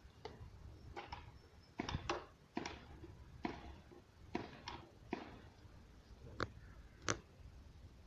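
A dozen or so faint, sharp clicks and taps at irregular intervals, from small hard objects being handled.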